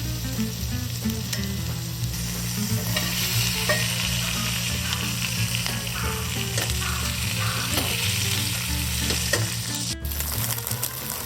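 Food sizzling as it fries in a pan over a campfire.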